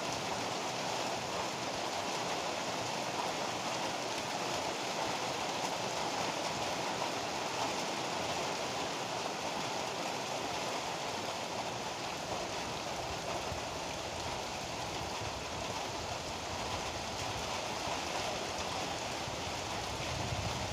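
Heavy rain pouring steadily, an even hiss without breaks or single louder events.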